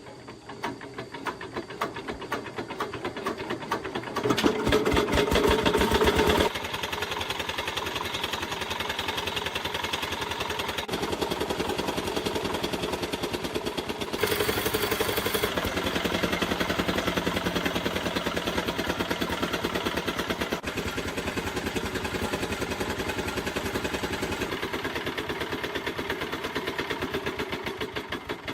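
Restored ZS1115 single-cylinder diesel engine starting and running with a fast, even beat of firing strokes. It gets louder twice for a couple of seconds, about four seconds in and again about fourteen seconds in.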